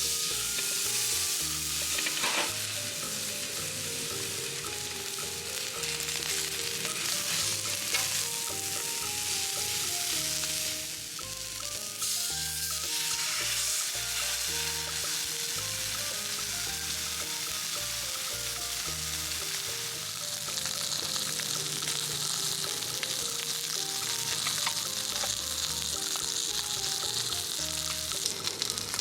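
Food sizzling and frying in a hot pan, a steady crackling hiss.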